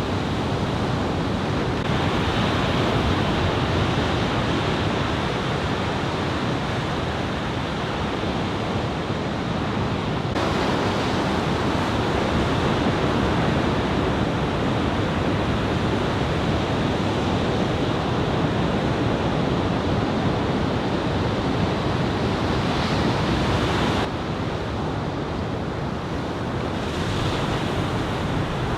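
Ocean surf from a typhoon swell, breaking and washing continuously, with wind buffeting the microphone. The sound shifts abruptly in level and tone a few times: a couple of seconds in, about ten seconds in, and again past twenty seconds.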